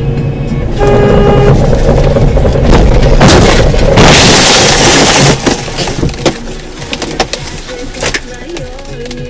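A short car horn blast, then a loud crash noise lasting about two seconds, followed by several sharp knocks: a traffic collision.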